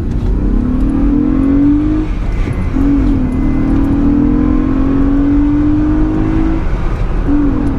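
Car engine accelerating hard through the gears: the engine note climbs steadily in pitch, drops as it upshifts about two seconds in and again near the end, then climbs again, over steady road and wind rumble.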